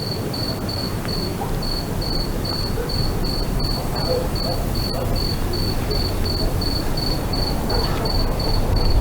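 A cricket chirping steadily, about three high chirps a second, over a low rumble and hiss that slowly grows louder.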